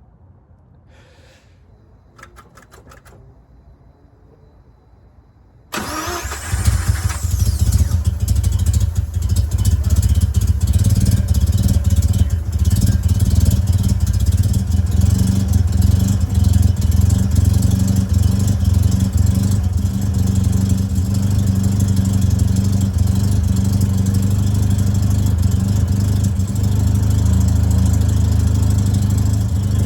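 1985 Mazda RX-7's carbureted 12A rotary engine cranked and started about six seconds in, after a few faint clicks, then running at a steady idle. It is a cold start on a cold day.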